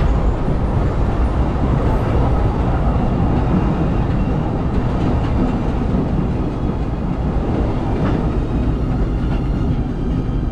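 Disneyland Railroad steam train running along the track, a steady rumble of wheels and cars, heard from aboard.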